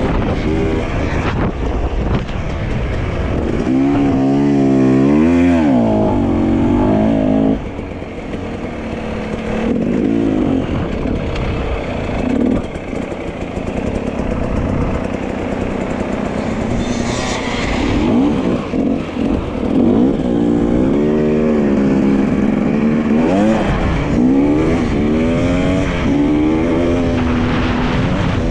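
Dirt bike engine running while riding, its pitch climbing and falling again and again as it revs up and shifts. It eases off about seven and a half seconds in.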